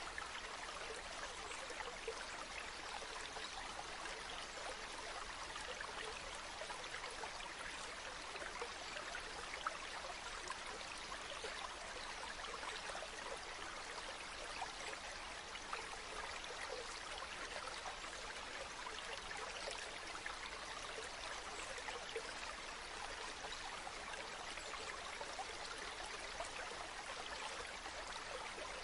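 River water flowing steadily: an even rush flecked with small splashes and trickles, with a few slightly louder splashes.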